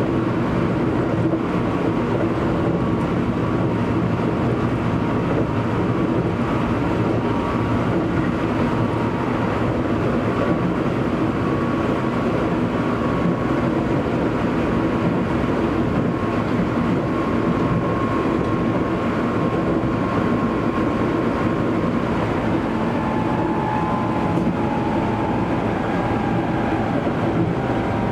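Running noise heard inside a Keio Series 8000 electric train car (GTO-VVVF equipped) on the move: a steady rumble of wheels and motors, with faint whining tones on top that sink a little in pitch near the end.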